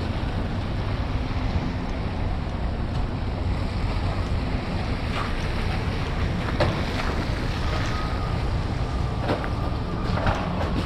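Wind buffeting the microphone, a steady low rumble, with a few faint knocks in the second half.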